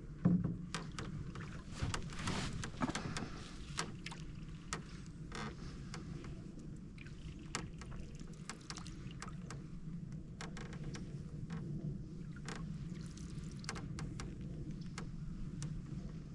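Canoe being paddled: paddle strokes in the water with splashes and drips, and many light knocks and creaks from the paddle and hull, over a steady low hum.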